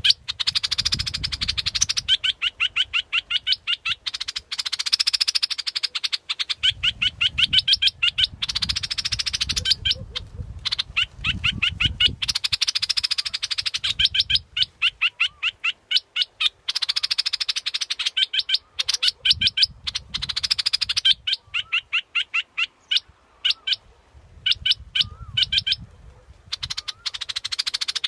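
Yellow bulbul (nok dok taeng) calling in long runs of rapid, repeated chattering notes, alternating with harsher buzzy stretches and brief pauses, as on a decoy-call recording. A low rumble sits underneath at times.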